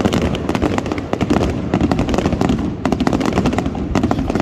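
Fireworks display going off in a dense, continuous barrage of sharp cracks and bangs, many per second.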